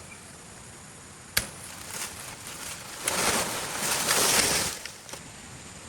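A single sharp knock, then about two seconds of rushing, rustling noise.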